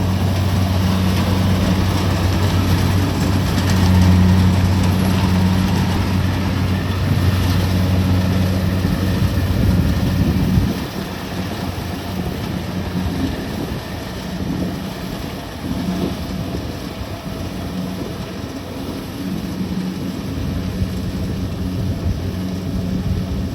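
Kubota DC-70 Plus combine harvester's diesel engine running steadily with a low hum. About ten seconds in, the sound drops noticeably quieter and the low hum fades.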